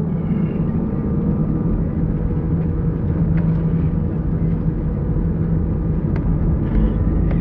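Airliner's engines running with a steady rumble and a constant low hum.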